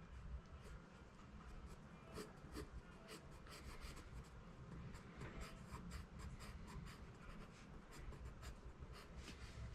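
Faint scratching of a graphite pencil drawing on paper, in many short strokes.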